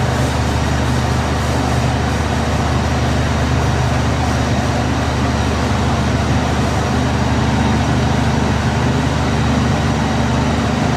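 Passenger train running steadily, a continuous rumble with a low hum heard from on board.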